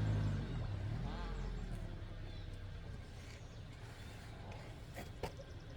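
A motor vehicle's engine running close by, its low hum fading away over the first second or two, leaving a faint background with a few sharp clicks near the end.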